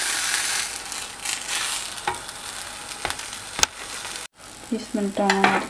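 Panini sizzling in an oiled grill pan, with a few sharp clicks of a metal spatula against the pan as the sandwich is turned and pressed. The sizzle breaks off briefly just after four seconds.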